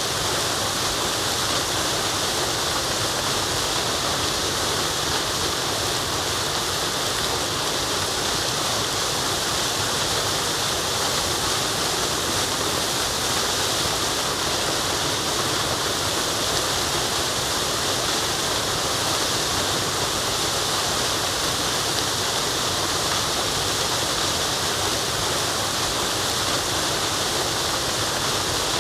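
Waterfall: a steady, unbroken rush of falling water, hissing and bright, with no changes.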